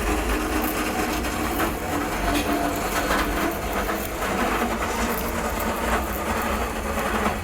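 Workshop machinery running steadily, with irregular metallic clatter and knocks over it.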